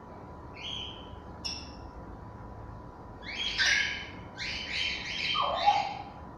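African grey parrots calling: a short call and a brief high whistle, then from about three seconds in a run of harsh, rasping squawks.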